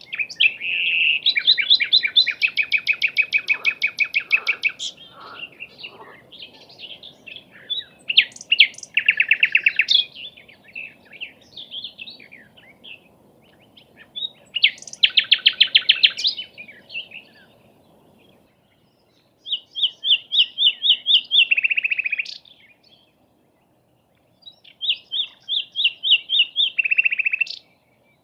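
A bird singing: five phrases of fast, rapidly repeated trilled notes with short pauses between them.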